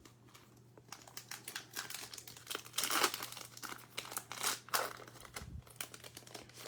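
Trading-card pack wrapper crinkling and being torn open by hand. It makes an irregular run of crackles, loudest about three seconds in and again around four and a half seconds.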